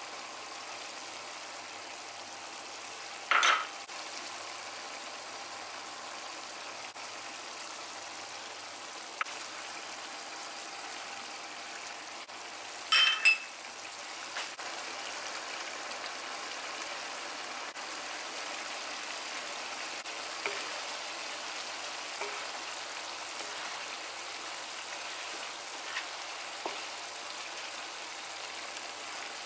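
Minced chicken sizzling in its sauce in a wok, a steady frying hiss. Two short loud clatters cut through it, one a few seconds in and one near the middle, and a few light taps follow later as the mince is stirred with a wooden spatula.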